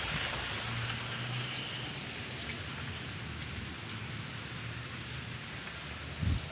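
Steady rain pouring down.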